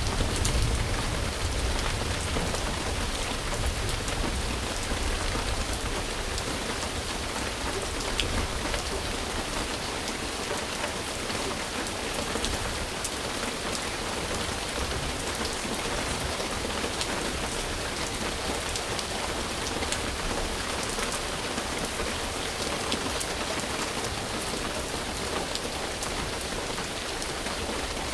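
Steady rain falling, an even hiss with individual drops ticking through it. A low rumble underneath is strongest for the first ten seconds or so and then fades away.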